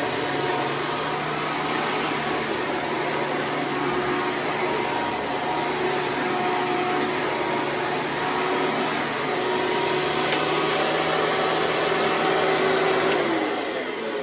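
Hoover Preferred upright vacuum cleaner running steadily, then switched off about a second before the end, its motor winding down with a falling whine.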